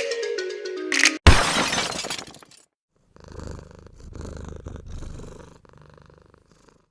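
Outro music with mallet-like notes cuts off about a second in, into a sudden shattering crash that fades over about a second. After a short silence comes a low, rough, rhythmic rumble like a purr, lasting about two and a half seconds.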